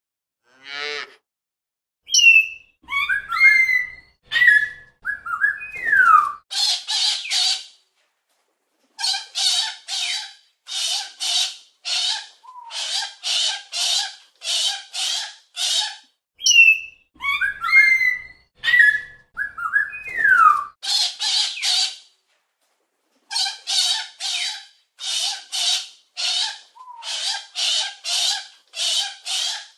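A parrot calling: a few whistles and sliding chirps first, then harsh squawks in quick groups of two or three. About halfway through, the same run of whistles and squawks repeats.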